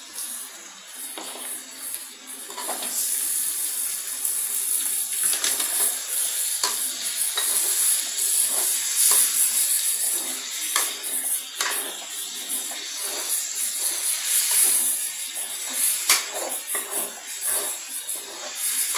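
Raw prawns sizzling in hot oil in an aluminium kadai, the hiss growing louder about two seconds in. A metal ladle scrapes and clinks against the pan again and again as they are stirred.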